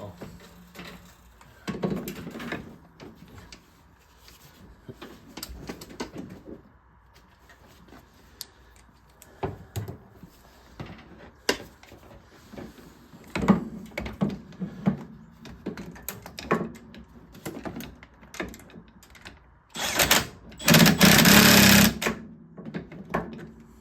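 Hand tools working on exhaust header bolts: a socket wrench clicking and metal tools knocking and clinking at irregular moments, busier in the second half. Near the end comes a louder rattling clatter of metal lasting about two seconds.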